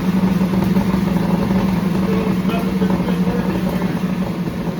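A 1989 Corvette's V8 engine running steadily, with no exhaust pops or bangs.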